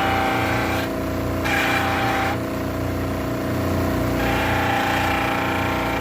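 Electric polishing machine running steadily, with a motorcycle wheel hub being buffed on it: a higher rasping noise comes and goes in spells of one to two seconds as the hub is pressed against the wheel.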